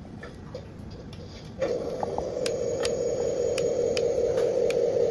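Small electric motor on a 1/14 RC truck, most likely the hydraulic pump, switching on about a second and a half in and running with a steady hum. Light ticks repeat about twice a second over it.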